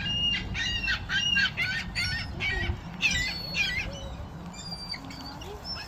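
Seagulls calling: a rapid series of short squawking calls, several a second, busiest over the first three seconds and thinning out and fainter near the end.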